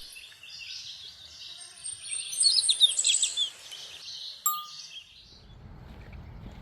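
Several birds singing and calling at once in woodland, with a loud burst of rapid high, falling notes about two to three seconds in. A short bright ding rings out about four and a half seconds in, and after about five seconds the birdsong fades and a low steady rumble takes over.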